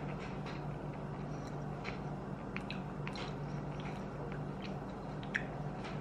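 Mouth sounds of a person chewing a spoonful of black lumpfish caviar: small scattered wet clicks and smacks over a steady low hum.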